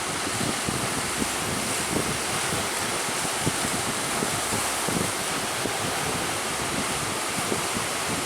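Strong wind buffeting the microphone over the rush of sea waves: a steady hiss with irregular low gusts.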